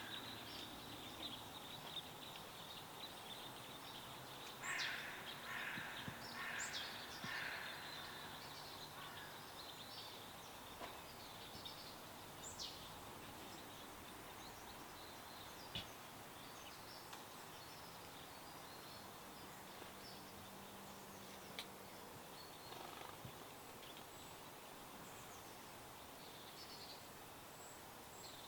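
Birds chirping and calling over a steady background hiss, with a run of louder, repeated chirps about five to eight seconds in and scattered short whistles afterwards.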